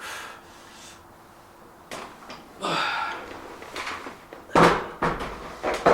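Knocks and clanks of weight-training equipment being handled: a short rushing noise about three seconds in, then several sharp knocks close together in the last second and a half.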